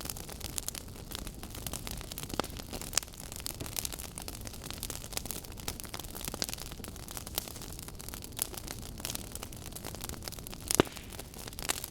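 Burning wood logs crackling: a dense run of small snaps and pops over a steady low rush of the flames, with one louder pop near the end.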